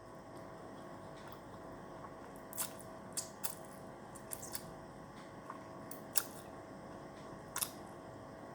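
Close eating sounds from a bowl of Indomie instant noodles: short sharp clicks and smacks, about seven, scattered over the stretch, over a faint steady hum.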